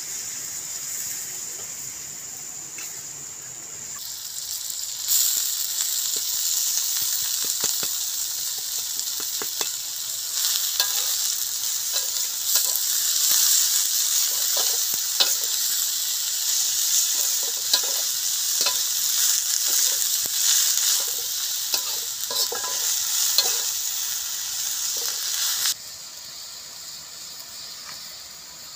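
Chopped turmeric leaves sizzling as they are stir-fried in a wok over a wood fire, with a spatula scraping and tapping against the pan. The loud sizzle starts about five seconds in and drops off suddenly near the end.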